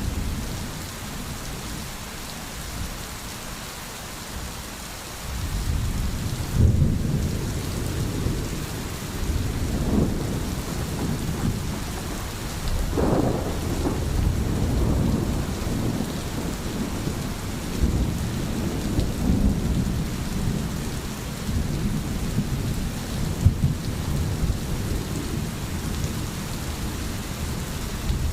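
Steady rain falling with low rolling rumbles of thunder. The rumbling swells up about five seconds in and comes back in waves several times after.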